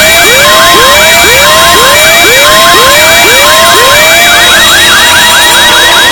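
Several electronic siren tones layered at once, very loud: a rising whoop repeating about twice a second, a two-tone high-low alternation, and a steady high whine. The low whoop stops about four and a half seconds in.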